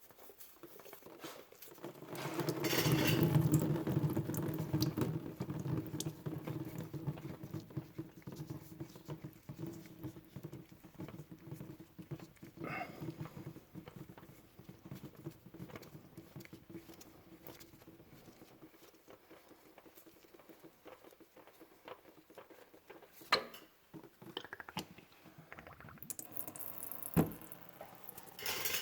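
Engine oil pouring out of the oil filter mount into a drain pan as the old filter comes off. It starts about two seconds in, is heaviest at first, then thins to a trickle. A few sharp knocks come near the end.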